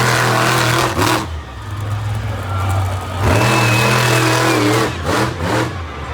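Monster truck engine revving hard in bursts: it holds high revs for about the first second, drops back, then climbs and holds again from about three to five seconds in, with a few quick blips after.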